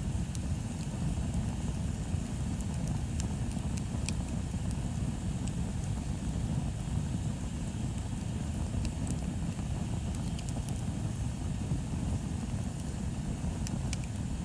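Bonfire burning with scattered sharp crackles and pops, a small cluster near the end, over a steady low rumble.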